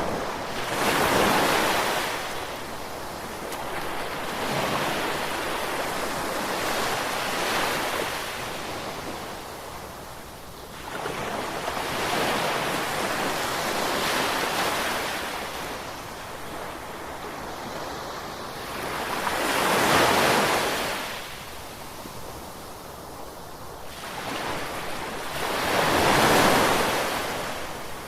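Ocean surf: waves breaking and washing in, swelling and fading in slow surges roughly every six seconds, the loudest near the start, about twenty seconds in and near the end.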